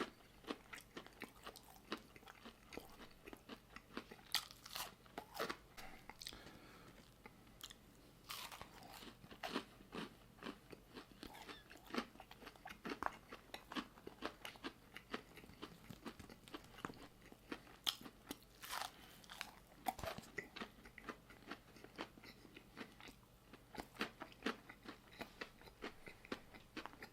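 A person chewing and biting into a crunchy barbecue chicken sandwich close to the microphone: a steady run of short, crisp crunches throughout.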